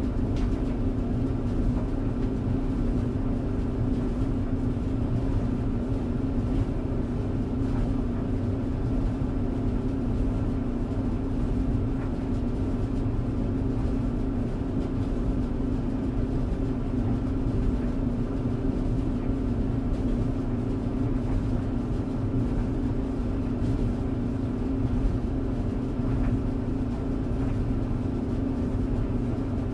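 Tumble dryer running steadily: a low rumble with a constant hum from the motor and turning drum, and a few faint ticks.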